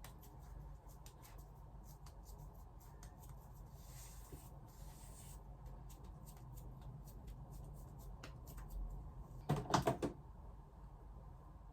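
Small clicks and taps of objects being handled, with a soft rustle about four seconds in, then a quick run of clattering knocks near the end.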